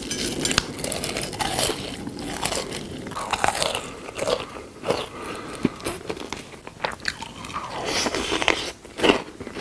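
Close-miked eating sounds: a person biting and chewing crunchy food, in a long string of irregular crunches.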